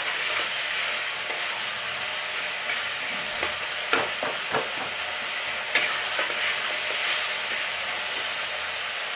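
Onion and spice masala frying in oil in a metal kadai, a steady sizzle, while a spatula stirs it. A few sharp scrapes and knocks of the spatula against the pan come about four to six seconds in.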